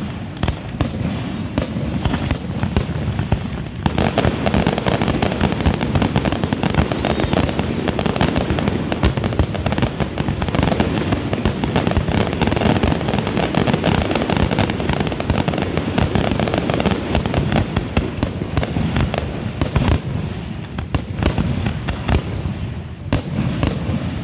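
Fireworks display: a dense, unbroken barrage of bangs and crackles, growing thicker about four seconds in.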